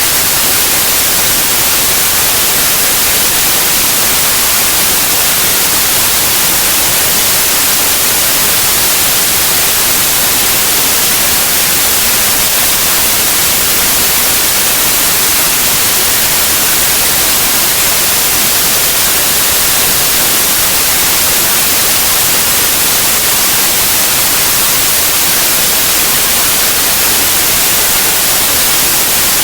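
Steady, loud white noise: an even hiss across the whole range, strongest in the treble, with no change.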